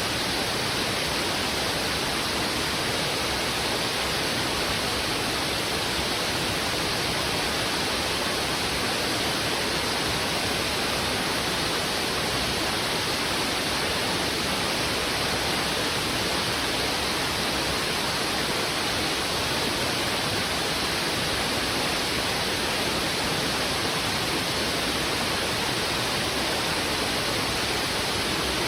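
River water rushing heavily over rocks: a steady, unbroken rush of flowing water.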